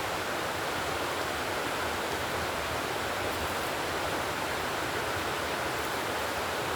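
Steady, even rushing noise that does not change, with no crackles or pops in it.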